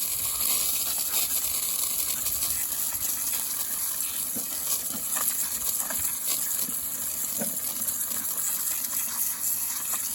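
Running water spraying steadily over freshly hulled black walnuts to rinse them, with a few faint clicks of the nuts knocking together.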